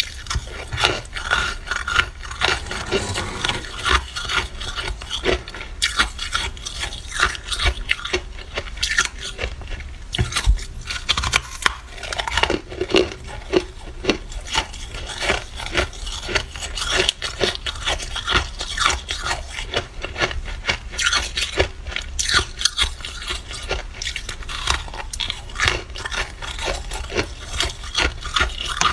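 Freezer frost being scraped and crunched: a continuous run of short, rough scraping and crunching strokes.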